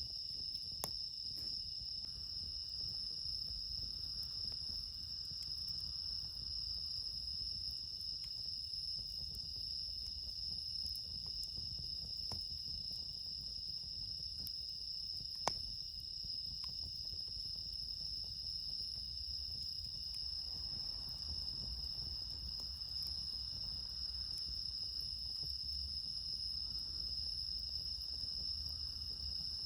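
Steady night chorus of crickets, including bell crickets (suzumushi), a continuous high ringing trill, with a couple of sharp clicks about a second in and about halfway through.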